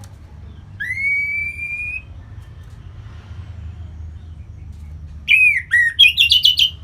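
Orange-headed thrush singing: one long, slightly rising clear whistle about a second in, then a quick run of sharp, varied sweeping notes near the end.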